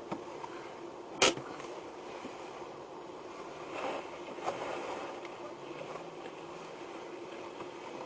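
Faint steady vehicle running noise, as heard on a dashcam recording, with one sharp click about a second in.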